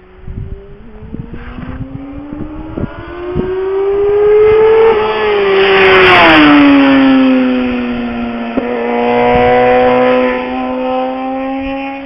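A small, high-pitched engine passes close by: its note climbs as it approaches, drops sharply as it goes past about six seconds in, then holds lower as it moves away.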